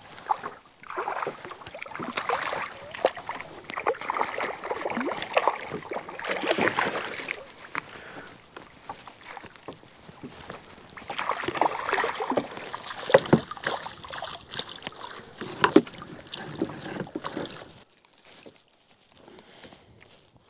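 Irregular splashing and sloshing of water with knocks and clatter against the canoe hull, as a fish and tangled line are handled aboard; it dies down about 18 seconds in.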